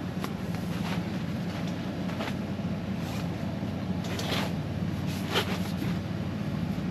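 Portable air conditioner running with a steady hum, under several brief rustles and knocks of gear being handled, the loudest right at the end.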